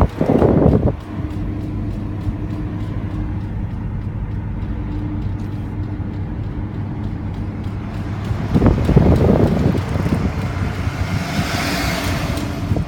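Aston Martin rolling with a repeating tick from its damaged rear driver-side wheel bearing, over a steady low hum. A louder rush of wind noise comes about nine seconds in.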